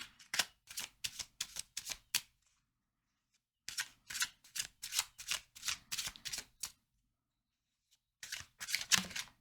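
A deck of oracle cards being shuffled by hand: three bouts of quick card slaps and snaps, about four a second, with short pauses between them.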